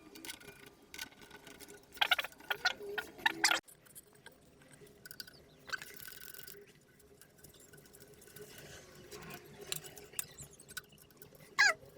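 Workshop handling noises: tools and metal parts clicking and clattering, with a burst of clatter about two seconds in and a single sharp click near the end.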